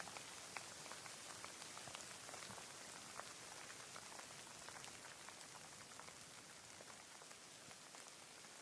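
Faint steady rain: an even hiss with many scattered drops tapping close by.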